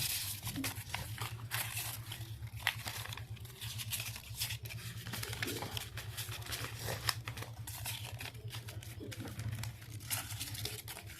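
Paper banknotes rustling and crinkling as they are handled and counted, with a steady low hum underneath.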